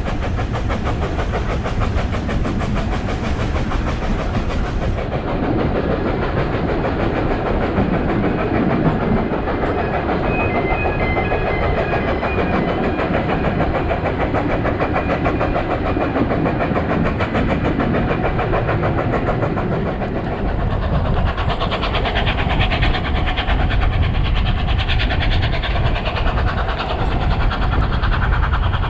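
Isle of Man Steam Railway narrow-gauge steam train running: a steady rumble and clatter of wheels on the rails, getting louder about two-thirds of the way in.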